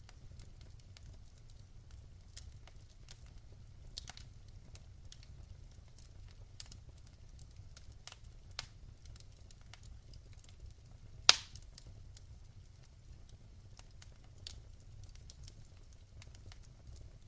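Wood fire crackling in a fireplace: scattered small pops and snaps, with one loud pop about two thirds of the way through, over a low steady rumble.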